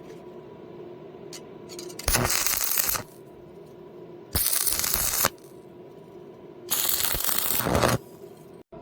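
Electric arc welding joining two thick steel plates: three short tack welds, each about a second of loud crackling and sizzling, at about two, four and a half, and seven seconds in.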